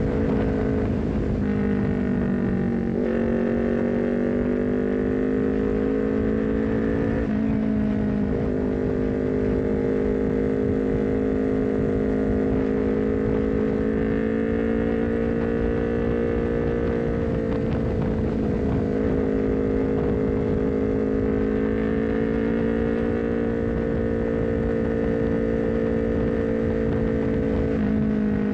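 Honda CBR250RR's 250 cc parallel-twin engine running at steady road speed through an aftermarket R9 header and short Leovince GP Corsa carbon silencer, its pitch drifting slowly up and down with a few sudden steps as gears are changed. Wind and road noise run underneath.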